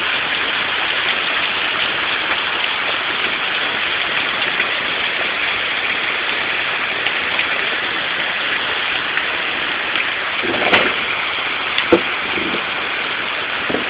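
Hail and rain coming down hard in a dense, steady hiss peppered with small ticks, with two louder knocks about eleven and twelve seconds in.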